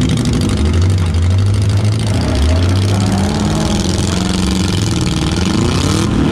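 Several demolition derby cars' engines running and revving together, with a rev climbing near the end.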